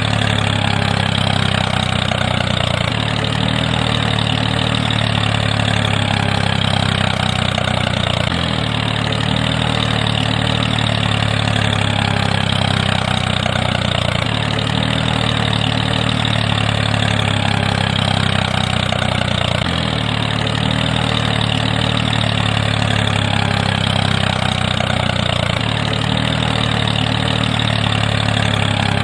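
Engine idling steadily, a low, even drone that repeats in a loop about every five and a half seconds.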